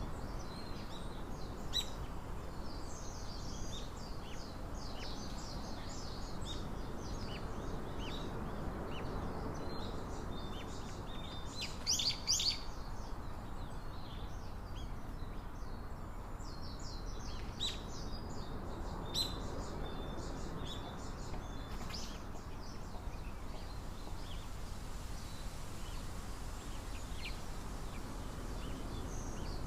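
Small birds chirping and calling in scattered short, high notes over a steady low background hiss, with the loudest burst of chirps about twelve seconds in.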